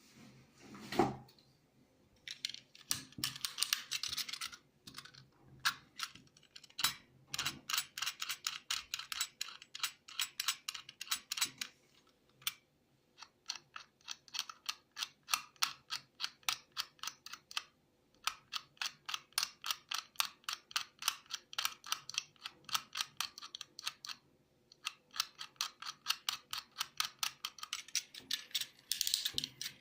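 Rapid, even mechanical clicking at about five clicks a second, in runs of several seconds broken by short pauses, with a low thump about a second in.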